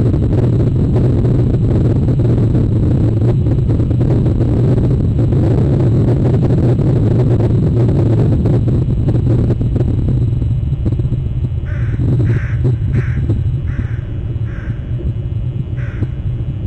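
A steady low rumble throughout. About two-thirds of the way in, a bird calls six times in a short series, about one call every 0.7 s, with a longer pause before the last.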